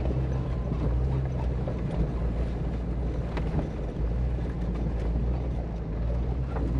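Jeep Cherokee XJ's engine running steadily at low speed on a rough dirt mountain trail, with road noise and a few brief knocks from the rocky track.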